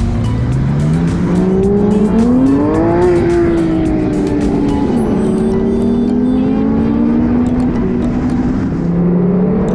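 Sports car engine accelerating: its pitch climbs for about three seconds, eases back, drops suddenly about five seconds in at a gear change, then climbs slowly again.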